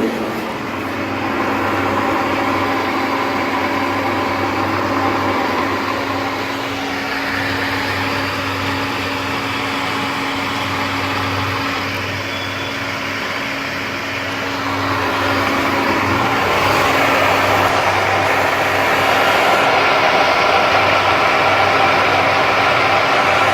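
A motor-driven machine running steadily, with a constant hum and a whirring noise that grows somewhat louder about two-thirds of the way through.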